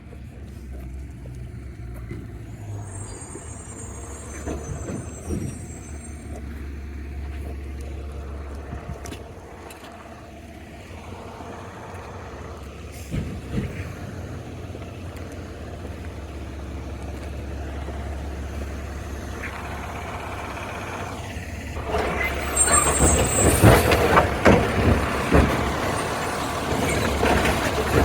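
Garbage truck's engine running with a steady low rumble and a brief high squeal a few seconds in. About two-thirds of the way through, a sharp air-brake hiss, then louder engine noise with clattering knocks.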